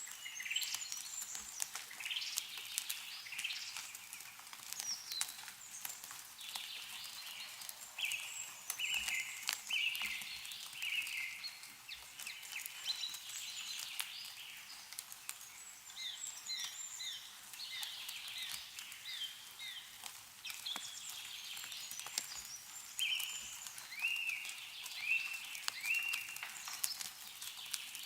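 Several songbirds singing and calling in short, repeated phrases, with water dripping and pattering from melting snow in the trees as scattered ticks.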